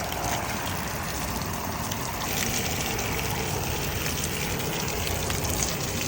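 Steady spray of water drumming on a waterproof rain jacket and beading off it.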